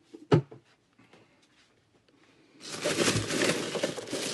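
A single sharp knock, then from about two and a half seconds in, plastic packaging crinkling steadily as it is handled.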